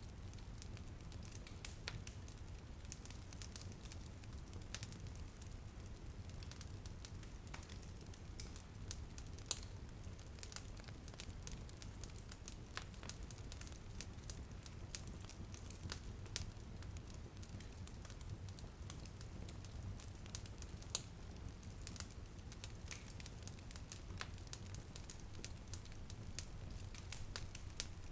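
Wood fire crackling in a fireplace: irregular sharp pops and snaps scattered throughout, over a steady low rumble.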